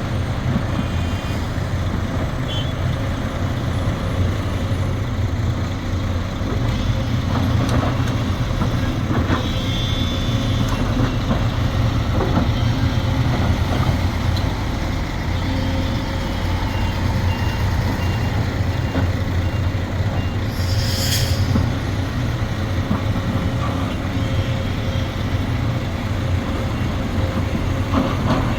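Sumitomo SH370LHD-6 excavator's diesel engine running steadily, with a brief sharp hiss about three-quarters of the way through.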